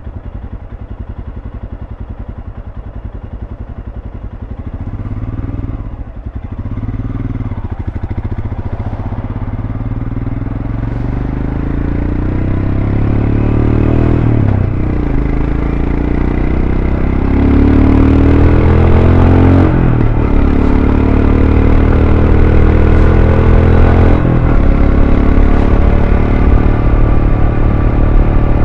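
2023 Royal Enfield Scram 411's single-cylinder engine running through its stock exhaust, pulling away and accelerating. Its pitch climbs and drops back four times as it shifts up through the gears, and it gets louder as speed builds.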